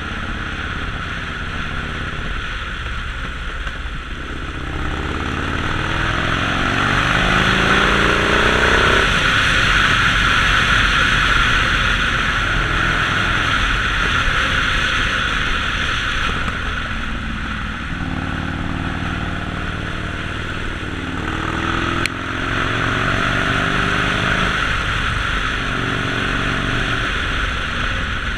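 Harley-Davidson Sportster Forty-Eight's air-cooled V-twin engine running on the move, its pitch climbing as it accelerates from about five to nine seconds in and again in several rising pulls later on. An even rushing noise runs under it, loudest in the middle, with a single sharp click a little after twenty seconds.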